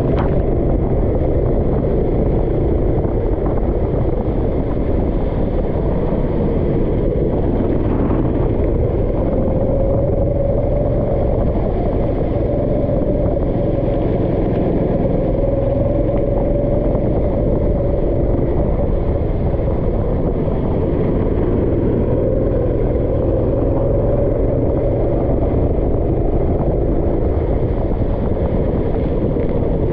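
A vehicle engine running steadily at speed with a heavy low rumble, its pitch drifting slowly up and down without sharp revs.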